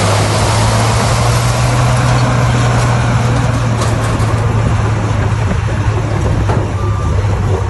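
Bulldozer's diesel engine running steadily with a low, even drone, over a rough noise of the machine working.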